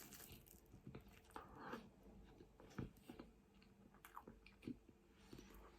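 Faint chewing and mouth sounds of a person eating: scattered soft clicks and smacks, a little louder about three seconds in and again near five seconds.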